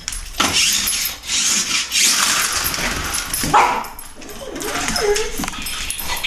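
A boxer dog barking and whining in short bursts while playing rough, over constant scraping noise.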